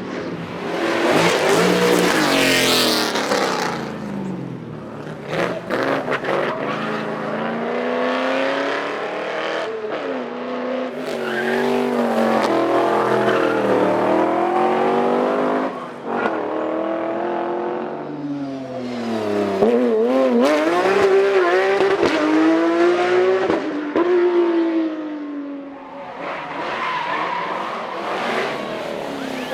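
Performance car engines revving hard, pitch climbing and dropping over and over through gear changes and throttle lifts, with tyres squealing and skidding as the cars slide and do burnouts.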